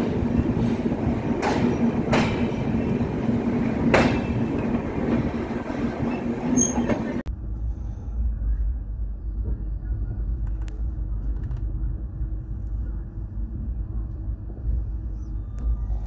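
LHB passenger coaches of an express train running along the line, a steady hum under the running noise with a few sharp clacks. About seven seconds in the sound cuts abruptly to a duller, deeper rumble.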